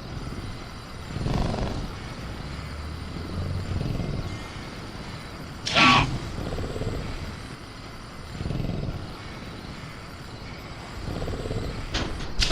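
Sound-designed ambience of a caged velociraptor: several low growling rumbles that swell and fade, with one short sharp sound about six seconds in, over a faint steady chirr of crickets.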